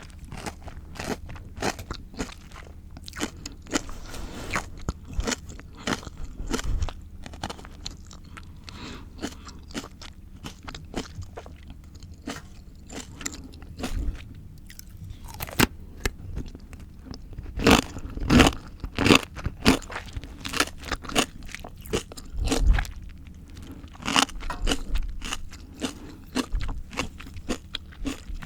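Close-miked crunching and chewing of raw, crisp fruit and vegetables: a run of small crackling chews, with a few louder bites about two-thirds of the way through.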